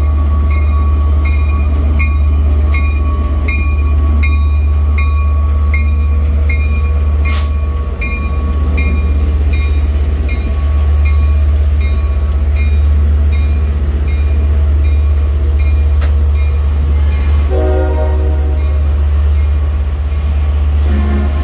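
Long Island Rail Road diesel-hauled train of bilevel coaches rumbling steadily past at a grade crossing, while the crossing bell dings about twice a second. A single sharp clank comes about seven seconds in.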